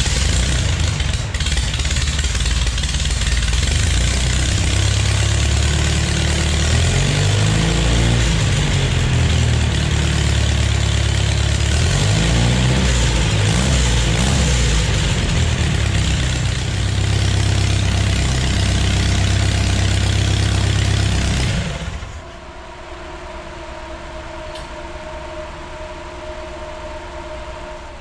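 GM 3.0-litre four-cylinder engine on carburetors and a custom-built exhaust, running with its revs rising and falling twice. It shuts off suddenly about 22 seconds in, leaving a quieter steady hum.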